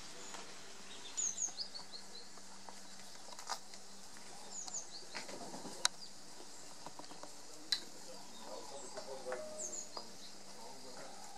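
Small birds chirping in short, high calls scattered throughout, with two sharp clicks, the louder about six seconds in, over a faint steady hum.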